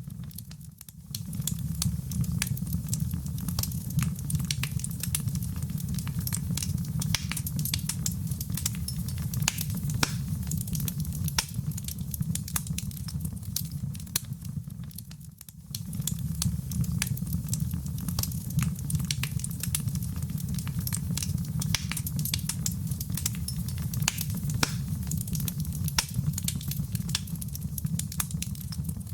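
Wood fire in a fireplace crackling, with many small sharp pops over a steady low rumble. The low rumble briefly drops away about a second in and again about halfway through.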